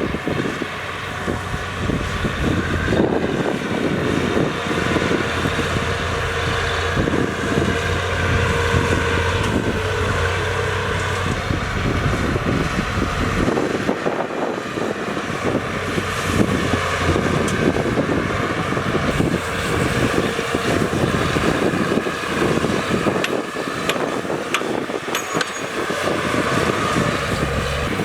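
Heavy diesel earthmoving machinery running on a dirt fill site. A low engine drone is strong for about the first half and drops away around the middle, over a continuous rumble and clatter.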